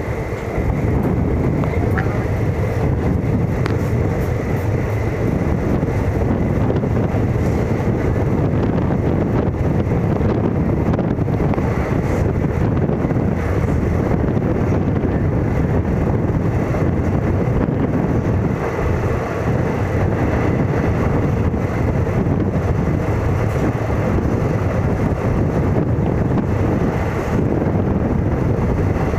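Steady rumble of a moving train, with wind noise on the microphone.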